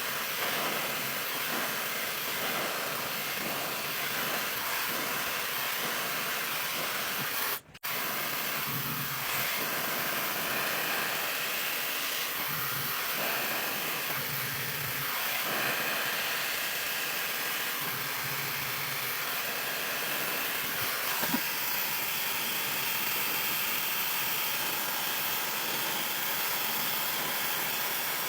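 CrazyMar high-speed ionic hair dryer blowing steadily while drying long hair extensions. The sound drops out for a split second about eight seconds in.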